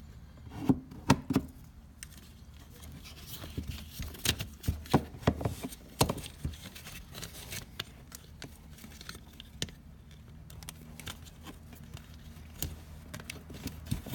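Irregular clicks, taps and clinks of tools and small parts being handled during an ATV voltage regulator repair, in a few quick clusters.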